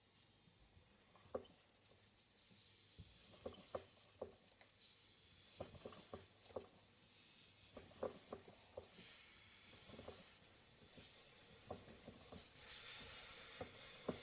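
Model Stuart Turner 'Mary' beam engine being fed compressed air: a hiss of air that rises about eight seconds in and grows louder near the end, with scattered small clicks and knocks from the mechanism as it is brought up to run.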